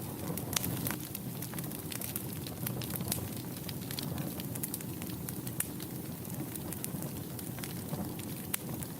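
Wood fire burning in a fireplace: frequent sharp, irregular crackles and pops over a steady low rush of flame.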